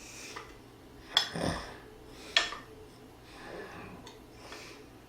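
Eating sounds: tableware clinking twice, about a second apart, the first with a dull knock under it, with breathing and soft rubbing in between.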